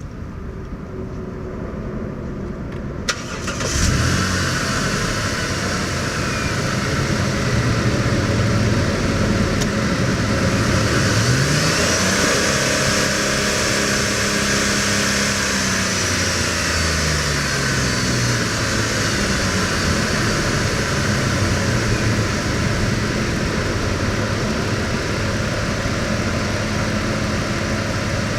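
2008 Dodge Ram 1500 pickup engine starting about four seconds in, just after a click, then idling. Around the middle it is revved up, held for a few seconds, and let fall back to a steady idle.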